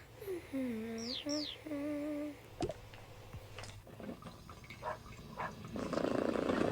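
A voice humming a few held notes of a tune, with two short high falling chirps about a second in, then a short burst of noise near the end.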